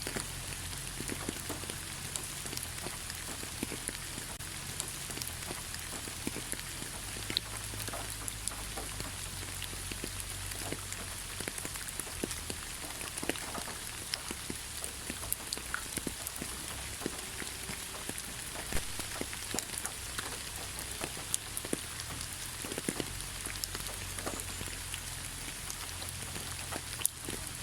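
Steady rain falling in a pine forest, with many separate drops ticking close by.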